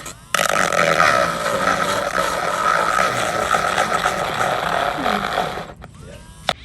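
Power drill running under load, its bit grinding through a plate to bore the bird bath's centre hole, with a steady high whine; it stops about a second before the end.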